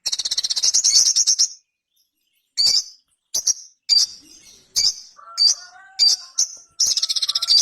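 Sogon (sogok ontong) sunbird singing: a fast, high-pitched rattling trill, then a string of short sharp chirps, and another fast trill near the end.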